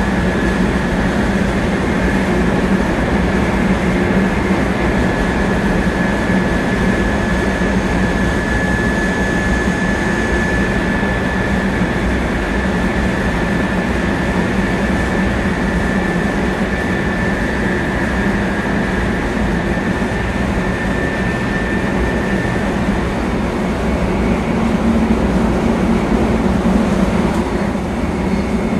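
Running noise of a 700 series Shinkansen heard from on board: a loud, steady rumble and rush of the train under way, with a steady high whine that fades out about three quarters of the way through.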